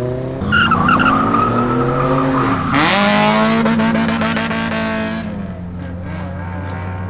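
A car's engine revving hard as it takes off with its tyres squealing, the engine pitch climbing steeply about three seconds in, then easing off near the end.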